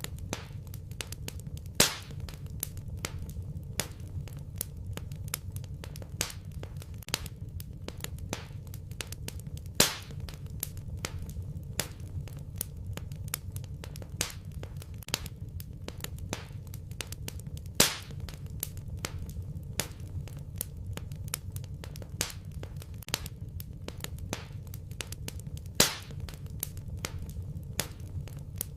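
Wood fire burning in a fireplace, crackling with many small quick snaps over a low steady rumble, and a louder pop about every eight seconds.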